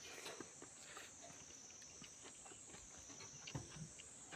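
Faint steady high-pitched chorus of crickets, with scattered soft clicks and smacks of someone chewing food.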